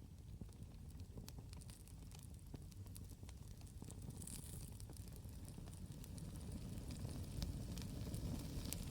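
Campfire crackling: scattered sharp pops and snaps of burning wood over a steady low rumble, with a brief hiss about halfway through.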